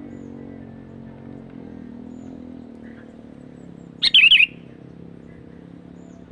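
Sooty-headed bulbul giving one short, loud warbling call about four seconds in, over a steady low hum.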